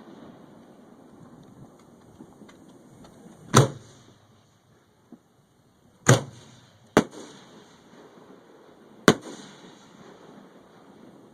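Fireworks going off: four sharp bangs spread over several seconds, two of them less than a second apart, each followed by a short fading rumble.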